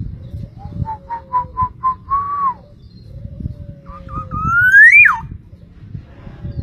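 Clear whistled notes: a quick run of about four short notes, then a held note, and a few seconds in a long rising whistle, the loudest sound, that breaks off sharply at its peak. Softer low falling whistles and a faint rustle sit underneath.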